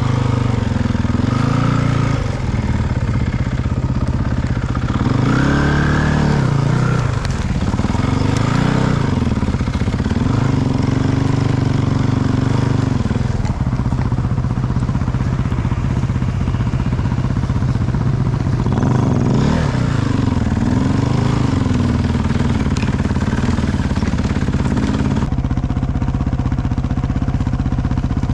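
Engine of an off-road vehicle under way, its pitch rising and falling again and again as the throttle is opened and closed, over a steady low drone.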